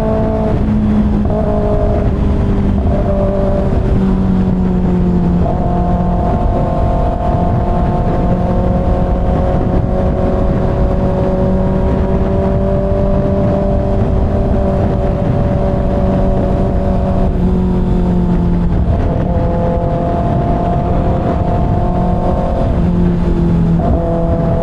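Kawasaki ZX-6R inline-four engine running at freeway cruising speed, its note holding steady and stepping up or down in pitch a few times, over constant wind and road noise.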